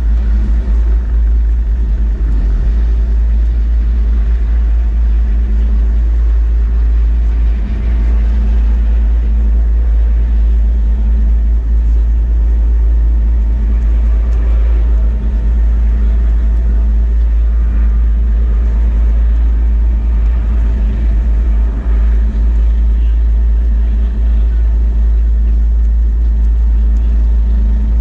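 Coast Guard helicopter running close by during a hoist: a loud, steady rotor and engine noise with a deep rumble.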